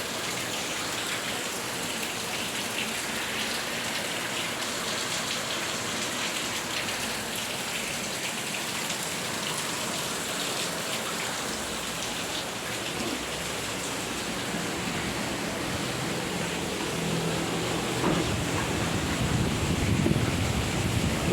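Heavy rain falling steadily, an even hiss throughout, with louder low-pitched noise in the last few seconds.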